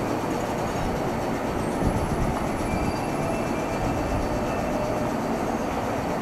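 Meitetsu electric train running with a steady rumble, with faint thin high squeals above it.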